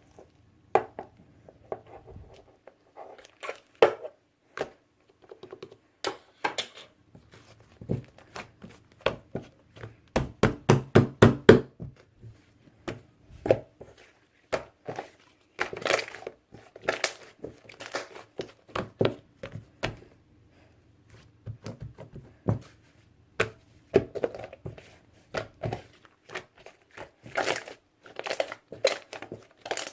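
Hands squishing, stretching and poking slime, making sharp crackling clicks and pops, with a fast run of loud pops about ten to twelve seconds in.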